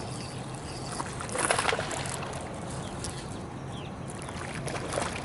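Water splashing and sloshing beside a kayak as a hooked bass is fought at the surface, with one short, louder splash about a second and a half in.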